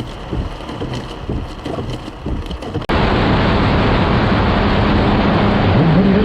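Dashcam audio of a vehicle on the road: irregular wind-buffeted rumbling and knocks, then after a sudden cut, loud steady wind and road noise with an engine hum that rises in pitch near the end as the vehicle accelerates.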